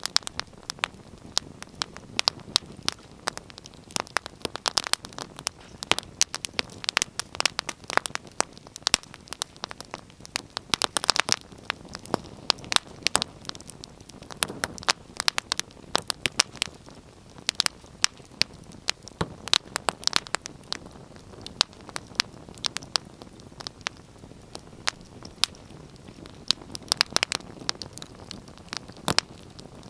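Wood fire crackling, with frequent irregular sharp pops and snaps over a low steady hiss.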